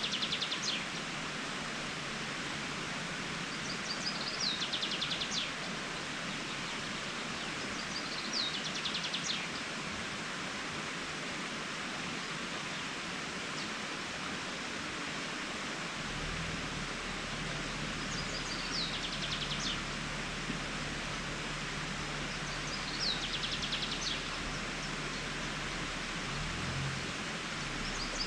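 A small songbird singing a short, rapid trilled phrase, repeated five times a few seconds apart, over a steady rushing hiss.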